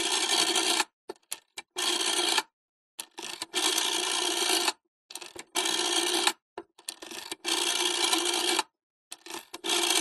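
Old telephone bell ringing in bursts of about a second, roughly every two seconds, six rings in all, with small clicks in the gaps between rings.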